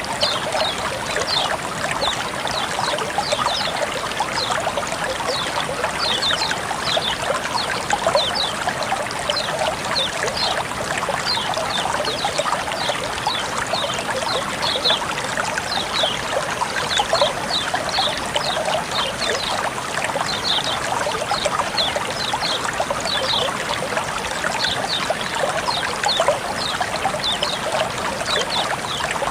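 Water flowing and trickling steadily, with many small, quick high splashes over a continuous rush.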